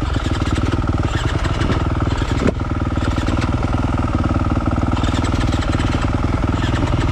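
Motocross dirt bike engine idling steadily, with a brief click about two and a half seconds in.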